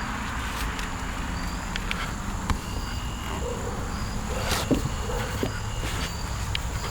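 Insects chirping steadily over a low steady hum, with a few light clicks and knocks, the sharpest about two-thirds of the way through.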